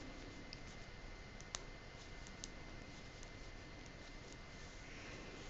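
Knitting needles clicking lightly and irregularly as stitches are worked, with one slightly sharper click about a second and a half in.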